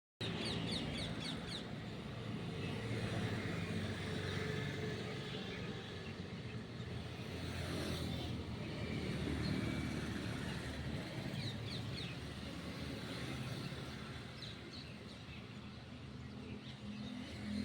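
Parrot giving short runs of quick high chirps, a few times, over a steady low rumble.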